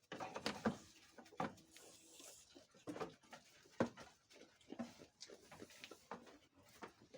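Goats moving and feeding in a pen: irregular short knocks and rustles, a few of them sharper.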